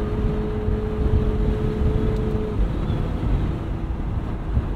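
2020 McLaren 720S Spider's 4.0-litre twin-turbo V8 running steadily at low revs, with a deep rumble and some wind noise. A faint steady tone over it dies away about halfway through.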